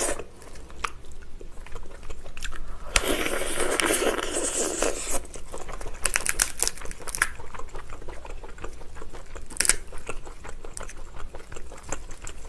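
Close-miked mouth sounds of someone eating lobster: chewing and biting, with crunching clicks and a longer noisy crackle about three seconds in.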